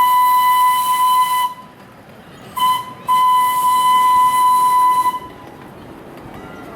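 Steam locomotive whistle blowing three blasts, long, short, then long, each a clear single pitch with a rush of steam hiss behind it.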